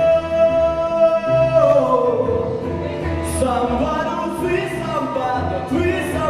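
A male singer with backing music holds one long high note, then breaks into wordless vocal runs about one and a half seconds in, over a pulsing bass accompaniment.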